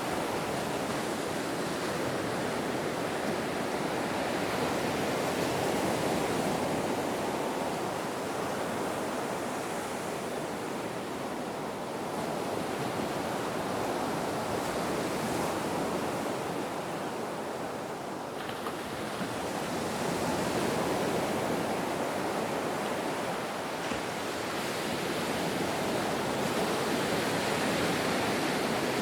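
Ocean waves breaking and washing on the shore in a continuous rushing surf, swelling and easing every several seconds.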